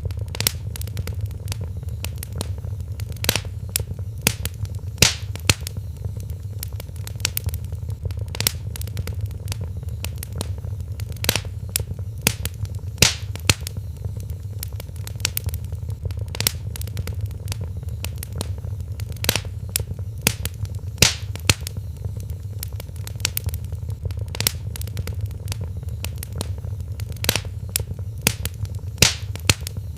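Wood fire crackling in a fireplace: irregular sharp pops and snaps, a few much louder than the rest, over a steady low rumble of the burning fire.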